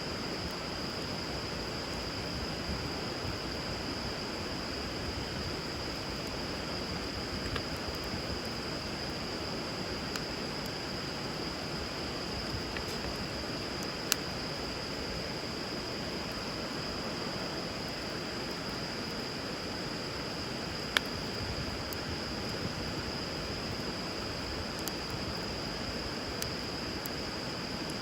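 Wood fire crackling with scattered sharp pops, two louder pops about halfway through and again about two-thirds through, over the steady rush of river water and a steady high tone.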